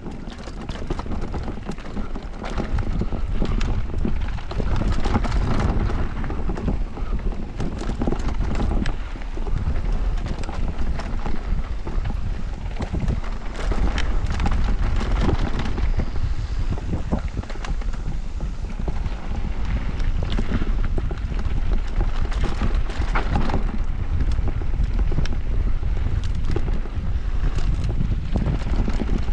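Wind buffeting the camera microphone over the rattle and knock of an electric mountain bike's tyres and frame on a rough downhill trail, with many small impacts throughout.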